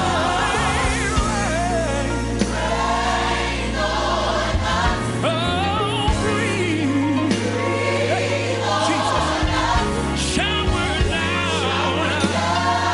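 Gospel song playing: a choir and lead voices singing with wavering, drawn-out notes over sustained bass and keyboard chords.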